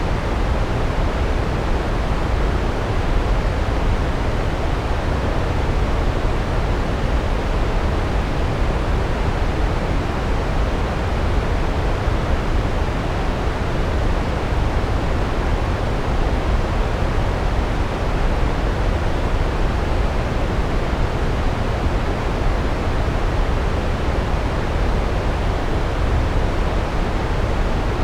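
Large waterfall: the steady, loud rush of falling water, heaviest in the low end, with no changes.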